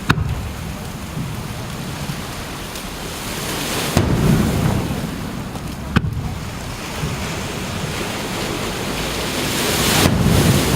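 Surf breaking on the beach and wind on the microphone, a steady rush that swells about four seconds in and again near the end. Three short sharp bangs cut through it: one right at the start, one about four seconds in and one about six seconds in.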